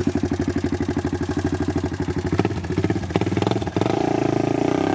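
Single-cylinder four-stroke engine of a lifted 1997 Honda 300 four-wheeler running with a fast, even pulse. About three and a half seconds in, it picks up and grows louder as the throttle opens a little.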